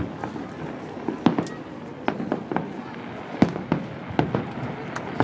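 Aerial firework shells bursting: an uneven run of a dozen or so sharp bangs, the loudest about a second and a half and three and a half seconds in.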